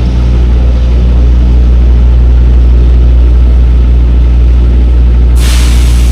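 Semi truck's diesel engine running with a loud, steady low drone, heard from inside the cab while driving. A short burst of hiss comes in near the end.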